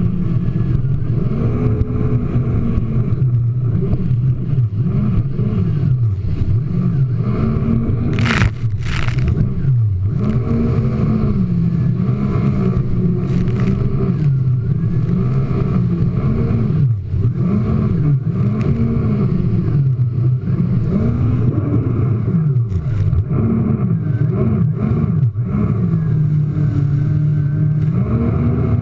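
Jet ski engine revving up and down over and over as the watercraft rides and jumps waves. There are two short bursts of rushing noise about a third of the way through.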